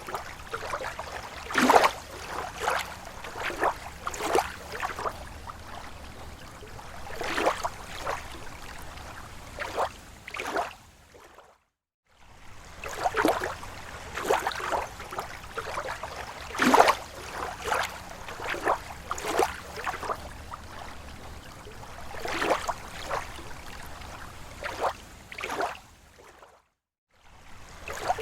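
Lake water lapping against the shore in small, irregular splashes. The sound cuts out completely for a moment twice, about eleven seconds in and near the end.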